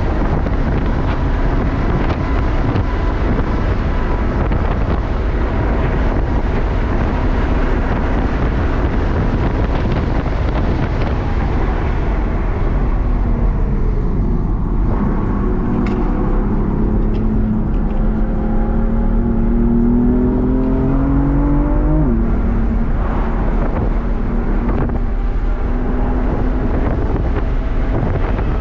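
BMW M4 Competition's twin-turbo straight-six, heard from inside the cabin at track speed over heavy wind and road noise. The engine note falls as the car slows for a corner about halfway through. It then climbs steadily under acceleration until a sharp drop at an upshift about three quarters through, and runs on.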